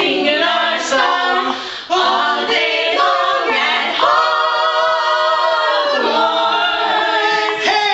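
Several voices singing a cappella in harmony, without instruments, settling into a long held chord in the middle before moving on again.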